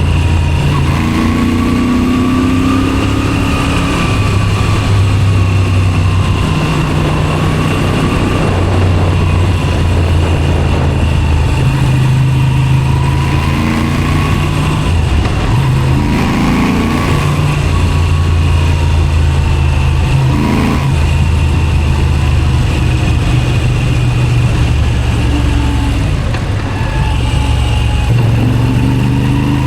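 Moto Guzzi V7 Special 850's air-cooled transverse V-twin running through an aftermarket Zard exhaust while the bike is ridden, the engine note shifting every few seconds as the throttle opens and closes, with steady wind rush.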